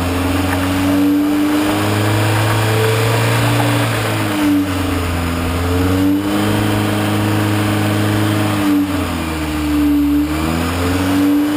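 Rock crawler buggy's engine held at high revs under load as it climbs a granite ledge, the pitch dropping and rising again about four times as the throttle is worked.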